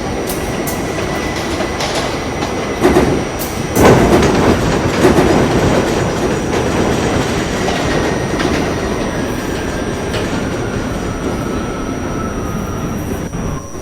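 R68A subway train running between stations, wheels clicking over rail joints under a steady rumble. There is a louder burst of rattling about three to four seconds in, and a faint thin whine that drops slightly lower in the second half.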